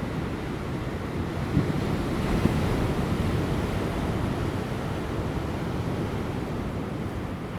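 Ocean surf breaking on offshore rocks, a continuous rushing wash that swells about two seconds in and slowly eases off, with light wind.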